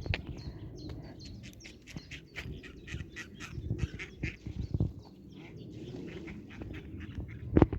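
Ducks quacking in a quick run of short, repeated calls, over a low rumble. A sharp knock sounds near the end.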